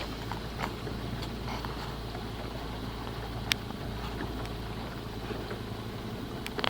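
Boat motor running steadily with a low, even hum, with a few faint ticks, one sharper about three and a half seconds in.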